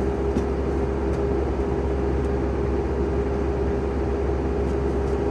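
An engine running steadily at constant speed, a steady drone with a strong hum, with a few faint ticks over it.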